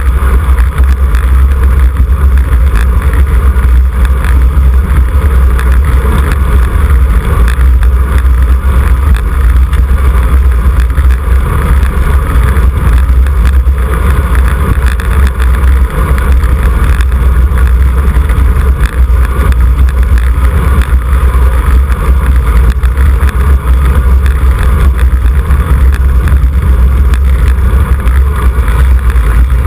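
Wind buffeting a camera microphone on a bicycle ridden at race speed: a loud, steady low rumble that never lets up.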